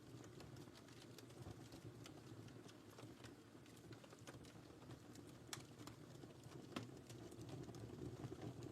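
Wood fire in a fireplace crackling faintly: a soft low rumble of burning with scattered sharp pops and snaps, the strongest a little past halfway.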